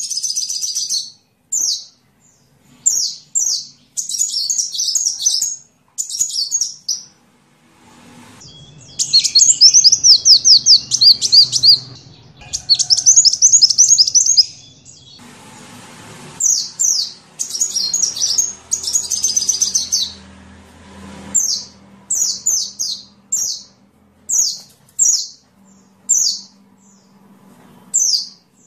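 Sunbird song: short, high chirping phrases repeated with brief gaps, breaking into faster trilling runs about a third of the way in.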